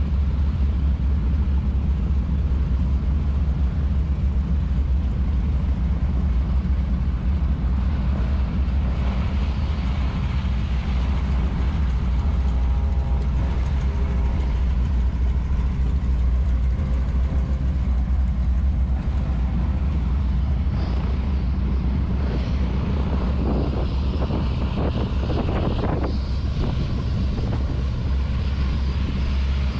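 A steady low engine drone that holds at one level throughout, with a few short clattering noises in the second half.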